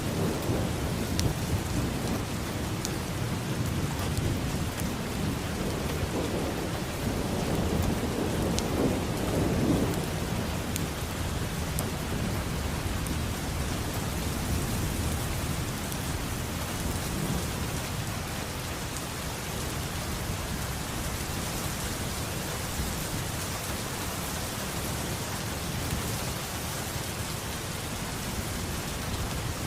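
Steady rain falling, with a low thunder rumble through the first third that swells about nine seconds in and then dies away, leaving the even hiss of rain and scattered drop ticks.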